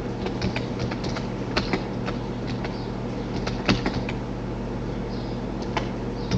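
Scattered clicks and keystrokes of a computer mouse and keyboard over a steady electrical hum.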